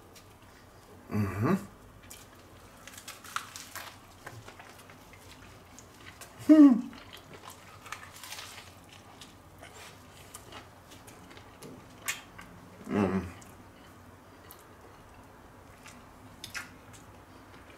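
A man biting into and chewing a thick homemade breakfast muffin sandwich, with soft chewing clicks throughout. Three short hummed vocal sounds break in, about a second in, midway, and about thirteen seconds in; the middle one is the loudest.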